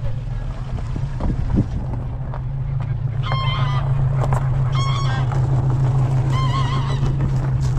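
A delivery truck's engine idling steadily, with geese honking three times over it.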